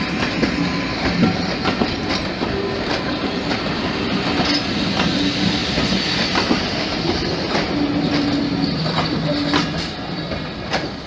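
Passenger coaches of a heritage train rolling past close by: a steady clatter of wheels clicking over the rail joints, easing a little near the end as the last coach passes.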